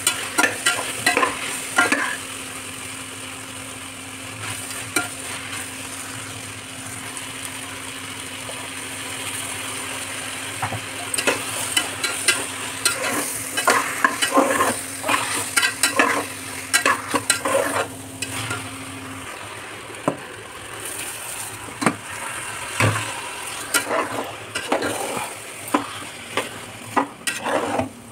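Vegetables sizzling in oil in an aluminium pressure cooker, with a metal spatula repeatedly scraping and stirring against the pot.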